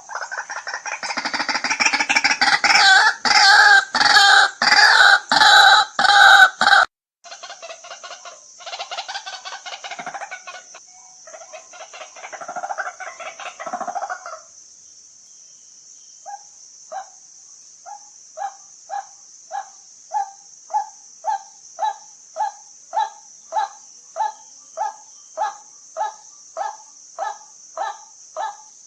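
White-breasted waterhen calling. It starts with a loud, raucous pulsing chorus, drops to softer chattering, then after a short pause settles into a single monotonous note repeated about twice a second.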